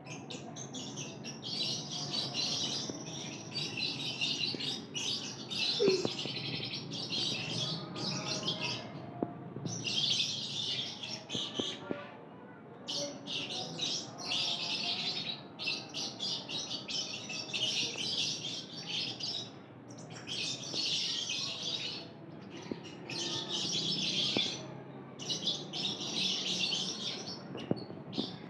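Several lovebirds chattering: dense, high, continuous chirping in stretches of a second or two, broken by brief pauses.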